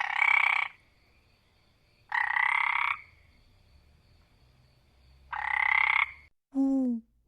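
Three loud buzzy animal calls, each under a second and about two and a half seconds apart, then near the end a shorter, lower call that falls in pitch.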